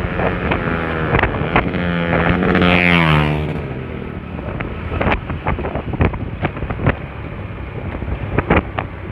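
Honda Spacy scooter's small single-cylinder engine running under way, with wind on the microphone. Its note swells and drops again about three seconds in.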